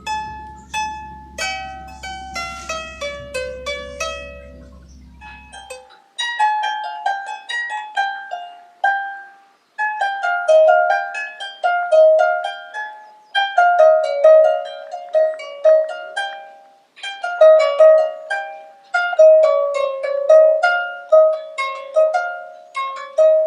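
Twelve-string diatonic Celtic bardic lyre being plucked, playing a melody of single ringing notes in phrases with short pauses. A low hum underlies the first several seconds and stops suddenly.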